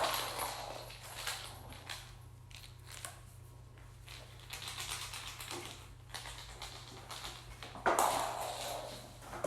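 Kittens playing with rattle-filled plastic Easter eggs: irregular light clicking and rattling, with a louder burst of noise about eight seconds in.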